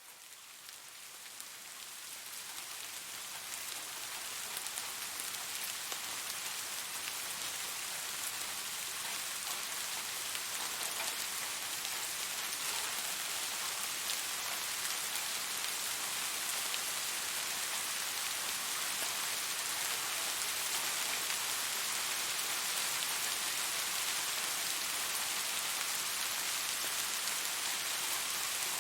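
Steady rainfall hissing, fading in from silence over the first few seconds and then holding even.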